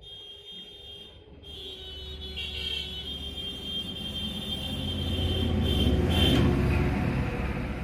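A motor vehicle's engine rumbling, growing louder to a peak about six seconds in and then easing off, with a steady high-pitched whine over it.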